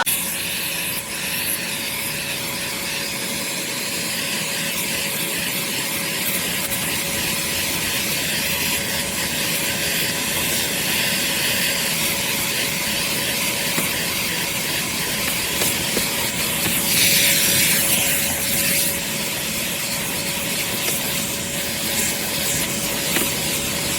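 Armor All AA255W 2.5-gallon wet/dry shop vac running steadily: a constant motor whine over a rush of air, with the hiss briefly stronger partway through.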